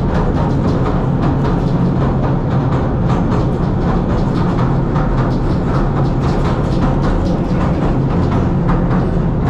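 Pier railway train running along the track, heard from inside the carriage: a steady low rumble and hum with constant small clattering knocks from the wheels on the rails.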